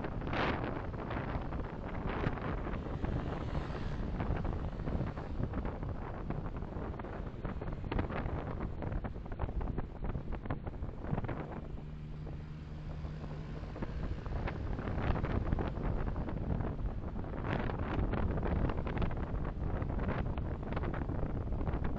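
Car on the move: a steady rumble of road and wind noise picked up by a dashcam microphone. A steady low hum comes in for a couple of seconds around the middle.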